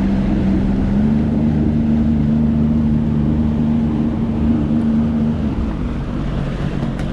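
Sea-Doo jet ski engine running under way. Its pitch steps up about a second in, eases off a little over five seconds in, then climbs again near the end.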